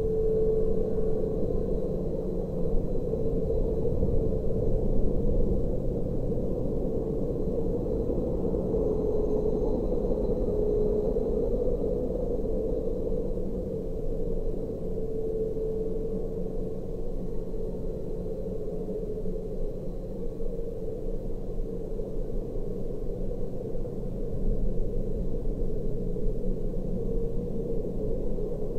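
Double-stack intermodal freight train rolling past: a steady rumble of wheels on rail, with a humming tone that swells and fades several times.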